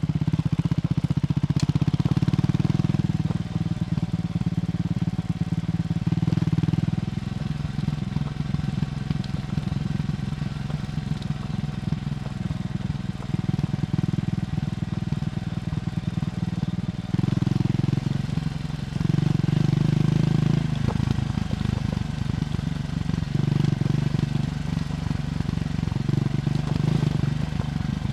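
Triumph Scrambler 400X's single-cylinder engine heard through its stock exhaust while riding, pulling harder and then easing off several times: louder for the first several seconds, again a little past the middle, and once more near the end.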